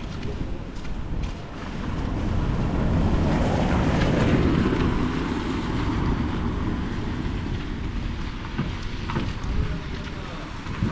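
Wind rumbling and buffeting on the microphone over a steady hiss of rain and wet street noise, swelling louder from about two seconds in and easing off again.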